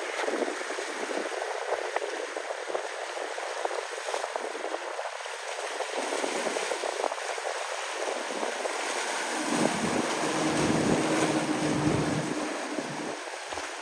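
Wind and water rushing steadily, joined about two-thirds of the way in by a small boat's motor droning with a steady hum that fades again near the end.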